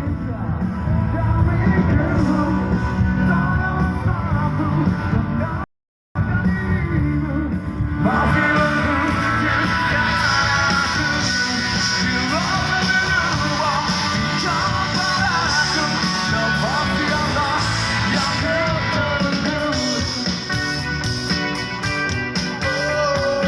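Live rock band playing loud amplified music with guitars and a singer. The sound cuts out for an instant about a quarter of the way in, then comes back brighter.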